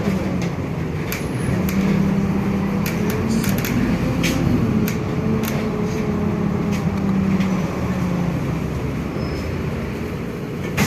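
Inside a city bus under way: steady engine and road noise with a low drone that wavers slightly in pitch, and scattered small rattles and clicks from the cabin.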